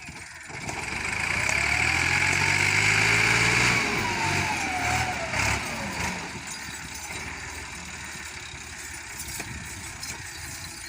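Massey Ferguson 260 turbo tractor's diesel engine revving up and holding high revs for a couple of seconds, then falling back and settling to a steady idle about halfway through.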